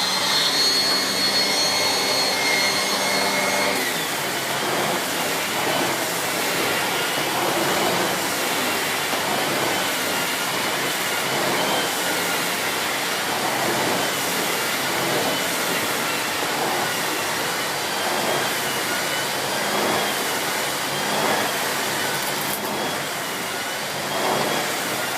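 Miele S6 cylinder vacuum cleaner's 2000 W motor running steadily with a high whine, its pitch dropping a little about four seconds in and then wavering slowly as the floor head is pushed back and forth across the carpet pile.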